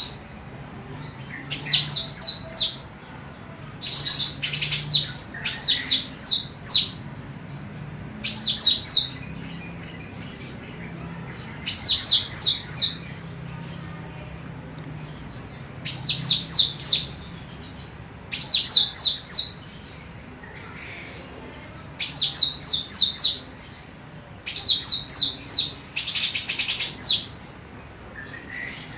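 Female golden cucak rante calling in short bursts of three to five quick, high notes, repeated roughly every two seconds. A couple of the bursts are harsher and noisier.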